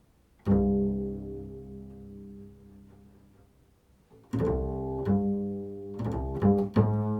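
A low string instrument plucked in an improvised passage: one note rings out about half a second in and slowly fades, then after a near-silent gap several notes follow in quick succession.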